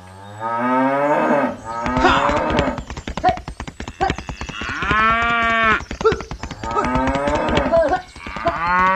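Cattle mooing repeatedly: about five long, arching calls roughly every two seconds, with a fast clicking rattle between the calls.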